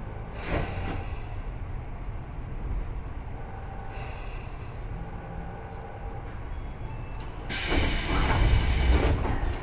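Tobu 9000 series electric train heard from inside the car: a steady low rumble with faint steady tones from its equipment, and a short noise about half a second in. Near the end, a loud hiss of compressed air lasts about two seconds.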